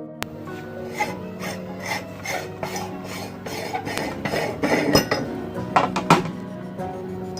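Meat grinder working material through: rough scraping and rasping with irregular crackles over a steady hum.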